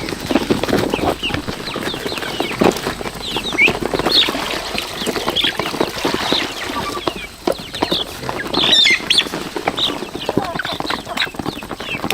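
A flock of chickens clucking and calling, with many short, high calls overlapping over a busy background of scratching and rustling.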